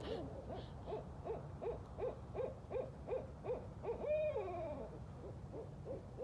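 Barred owls hooting: a quick run of short hoots, about three a second, breaks into one long, drawn-out hoot that slides down in pitch about four seconds in, followed by a few more hoots.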